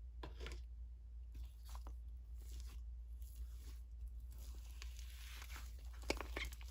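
Pencil sketching on paper: irregular scratchy strokes, thicker and quicker from about four seconds in, over a steady low electrical hum.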